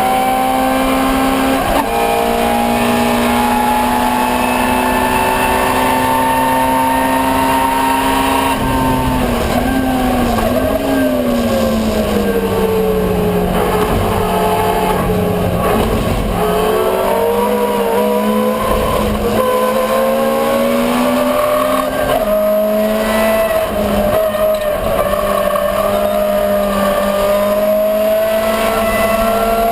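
Ford Escort 1300GT's four-cylinder engine racing at high revs. The pitch climbs, then falls about nine seconds in as the car slows for a corner, and climbs again from about sixteen seconds in as the car accelerates.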